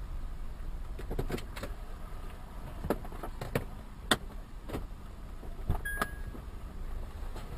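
Car driving, with a steady low road rumble and a scattered series of short sharp clicks and knocks.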